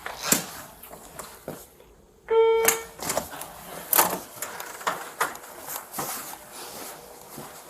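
Footsteps, about two a second, with a short electronic buzz a little over two seconds in that is the loudest sound.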